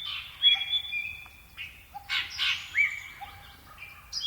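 Birds calling: short whistled chirps, several rising sharply in pitch, repeating about every half second to second.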